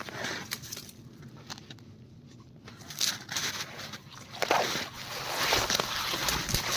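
Footsteps crunching and squelching in wet, slushy spring snow: irregular and quiet at first, becoming denser and louder from about halfway through.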